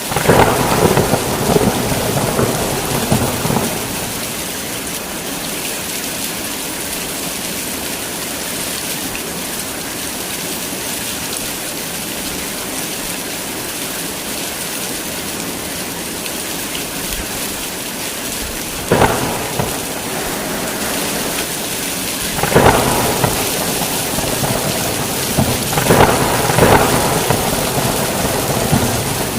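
Heavy rain falling steadily in a thunderstorm. A loud peal of thunder rumbles at the start for a few seconds, and three shorter claps follow in the second half, the last two a few seconds apart.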